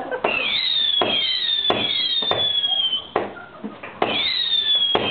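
Fireworks firing a rapid series of whistling shots. Each shot starts with a sharp crack and gives a falling whistle about a second long. There is a brief lull near the middle, then the shots resume.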